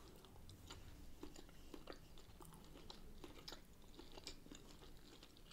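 Faint chewing of food, close to the microphone: soft, irregular mouth clicks and smacks.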